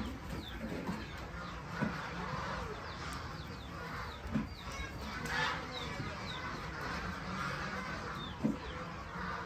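Farmyard background of birds chirping, many short falling high chirps scattered throughout, with a few soft knocks.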